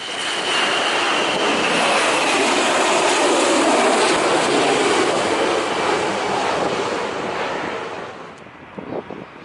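Jet airliner passing low overhead on landing approach: a loud engine roar with a whine that falls in pitch over the first two seconds. The roar dies away near the end.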